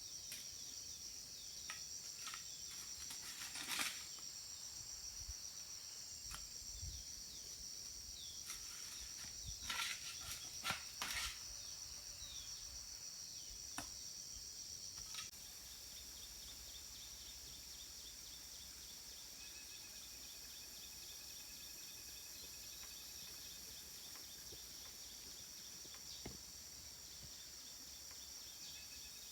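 Insects trilling steadily in a high, even chorus, with a few sharp knocks in the first half. About halfway through the sound steps down slightly to a quieter, evenly pulsing chirping.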